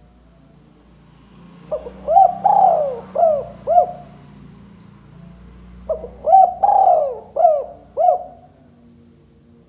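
Spotted dove (tekukur) cooing: two phrases of about five low, arching coo notes each, a few seconds apart.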